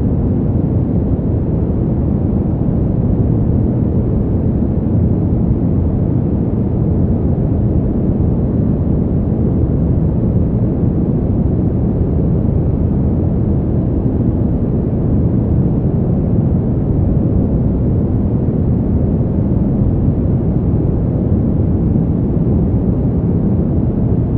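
Steady winter wind ambience: a deep, even rushing noise with most of its weight low down, no gusts or separate sounds standing out.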